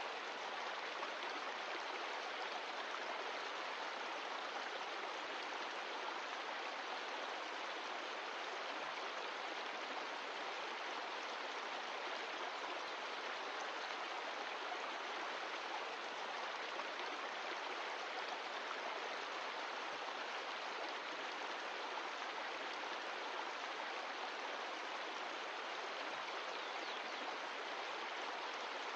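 Mountain stream of glacial meltwater, water rushing steadily over rocks.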